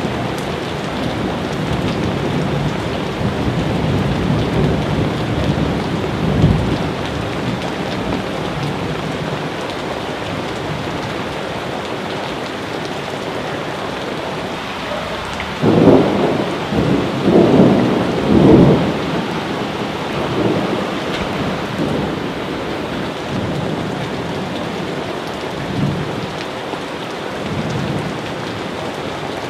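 Steady rain falling, with thunder rumbling through it. The loudest peals come in a cluster a little past halfway.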